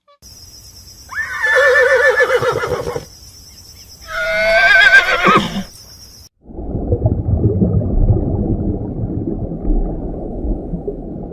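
A horse whinnying twice, each call a few seconds long with a quivering pitch. This is followed by several seconds of a dense, low, noisy sound.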